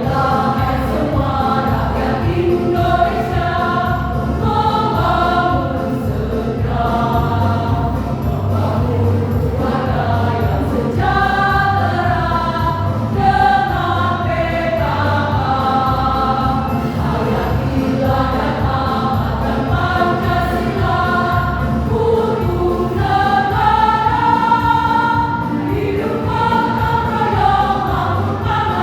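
Choir singing a song with steady rhythmic accompaniment underneath.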